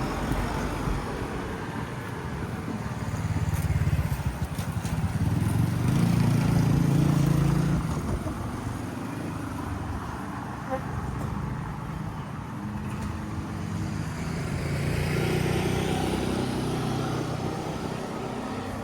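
Road traffic passing: one engine swells and fades a few seconds in, and another near the end.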